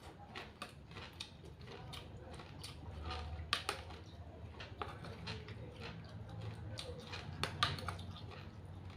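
A person eating spicy glass-noodle salad close to the microphone: irregular clicks and smacks of chewing, the loudest about three and a half and seven and a half seconds in.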